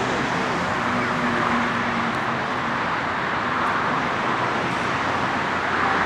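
Twin jet engines of a Boeing 757-200 freighter running loud and steady: an even rushing noise with a faint low hum in the first few seconds.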